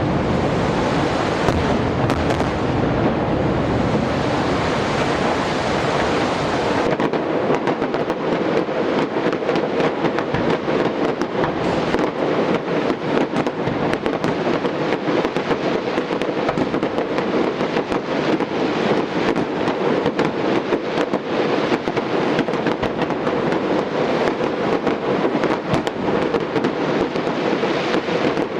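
Fireworks display going off without a break: a dense mass of bursts with a heavy low rumble, turning about seven seconds in to rapid crackling, many sharp reports a second.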